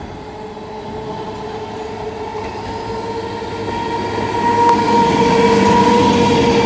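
Electric multiple unit (EMU) local train running toward the listener, growing louder over the first few seconds and then staying loud, a rumble of wheels on rails with a steady humming tone over it.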